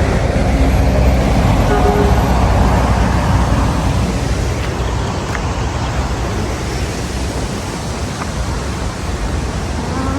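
Road vehicle passing, its engine and tyre noise strongest in the first half and easing off toward the end.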